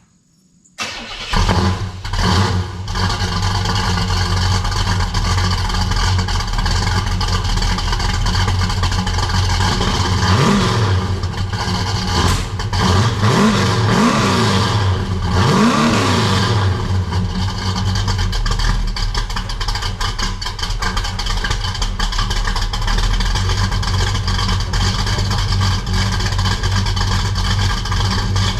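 A newly built big-block Oldsmobile V8 with headers and a full exhaust starts about a second in, catches at once and settles into a steady idle. Around the middle it is blipped three or four times, each rev rising and falling quickly, before it returns to an even idle.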